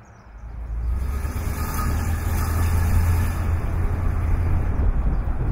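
1959 Cadillac Eldorado Biarritz's 390 cubic-inch V8 running as the car drives, a deep low engine note that swells over the first second and then holds steady.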